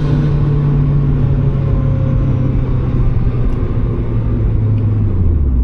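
Turbocharged Mazda Miata's four-cylinder engine running while driving, its low drone slowly falling in pitch as the car slows, then dropping lower toward idle near the end.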